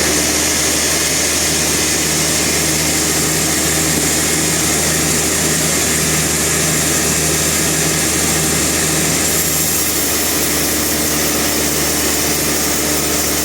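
Sawmill machinery running steadily: a continuous engine drone with a constant low hum and a high hiss, with no cut being made.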